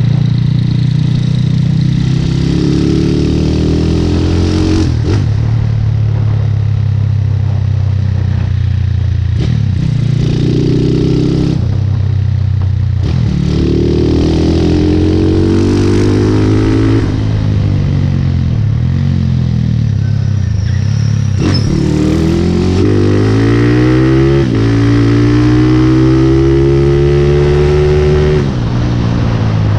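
Motorcycle engine accelerating through the gears: its pitch climbs steadily, then drops at each shift, about seven times, with a few short lulls between pulls.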